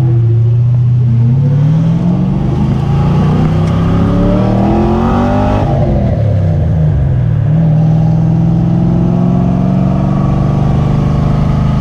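Car engine pulling hard, its pitch climbing for about four seconds. About six seconds in it lets off and the note drops away, then settles into a steady cruise.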